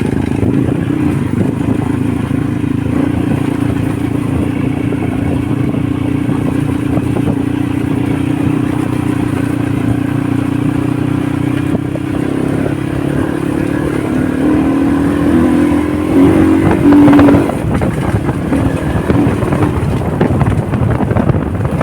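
Honda motorcycle engine running steadily under way, then revving up to a loud peak about three-quarters of the way through before easing off.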